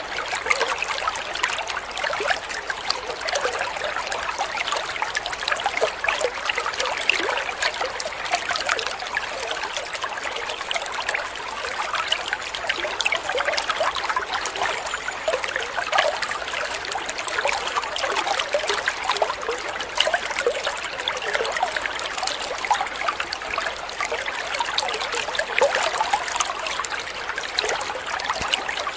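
Water trickling and babbling in a small stream, a steady run of splashing and gurgling.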